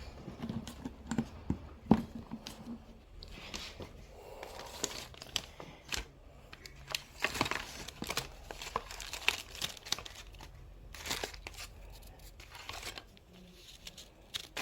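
Paper journaling scraps being handled close up, crinkling and tearing in short, irregular strokes, with a few sharp taps.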